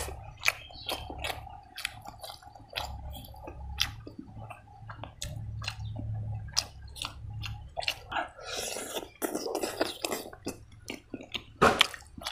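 Close-up wet chewing and lip-smacking of a person eating rice and pork fry by hand, a run of quick sharp mouth clicks, with the soft squish of fingers working the food. A louder burst of smacking comes near the end.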